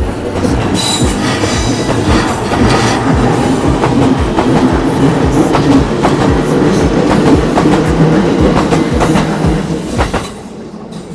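JR Itsukaichi Line electric commuter train passing over a level crossing, its wheels clicking over the rail joints in an irregular clatter on a loud, steady rumble. The sound drops away sharply about ten seconds in as the train clears the crossing.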